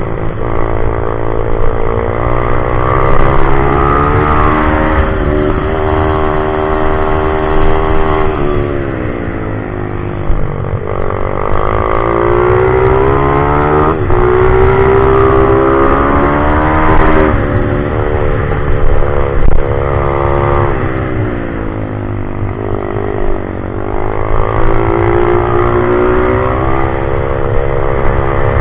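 Pit bike's small single-cylinder engine being ridden hard around a track. It revs up in long rising sweeps, then drops back, about every four to five seconds, over and over through the laps.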